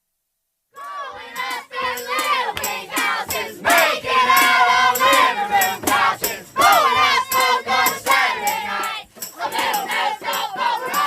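A crowd of many voices shouting and cheering at once, starting abruptly about a second in.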